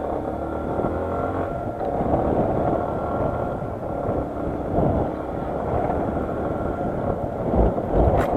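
Motorcycle engine running on the move, its pitch rising and falling through the first couple of seconds, with wind noise on the microphone. Low thumps and a sharp click come near the end.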